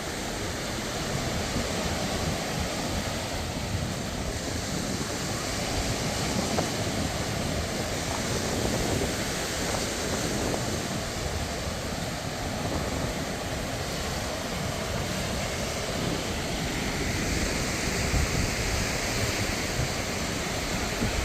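Sea surf washing onto a sandy beach, a steady rush of waves, with wind buffeting the microphone.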